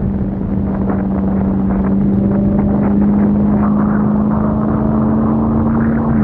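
Supercharged 6.2-litre V8 of a Dodge Challenger SRT Hellcat Redeye cruising at highway speed, a steady engine drone slowly rising in pitch, over the hiss of wet road and rain.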